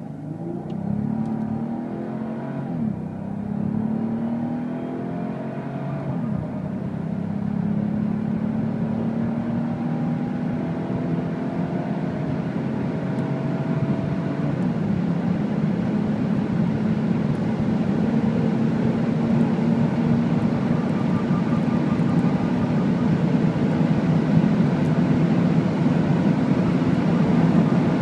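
Mercedes-Benz CL65 AMG's twin-turbo 6.0 V12 accelerating hard from a standstill, its pitch climbing through each gear and dropping back at upshifts about three, six and fourteen seconds in, then rising slowly and steadily through the top gear as the car gets louder with speed.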